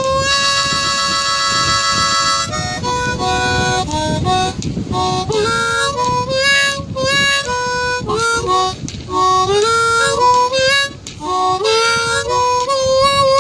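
Blues harmonica solo: a long held note and chord, then quick runs of short notes, some bent so they slide in pitch.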